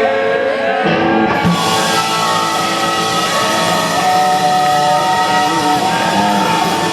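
Live rock music with electric guitar and singing, held notes over a steady band; the sound grows fuller about a second and a half in.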